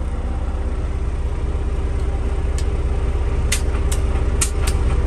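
Caterpillar C11 diesel engine idling steadily, heard from inside the truck's cab, with a few short sharp clicks in the second half.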